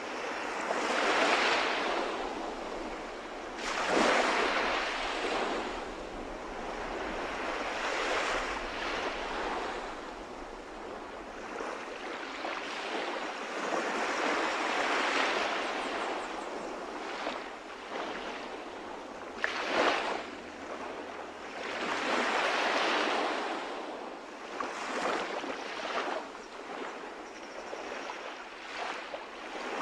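Calm sea waves breaking and washing on the shore, the surf swelling and fading every few seconds.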